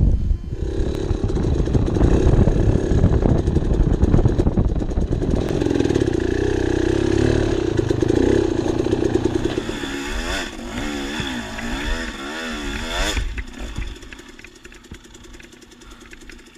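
Dirt bike engine running hard under load with clattering knocks, then its pitch swinging quickly up and down in short blips from about ten seconds in, before dropping lower and quieter near the end.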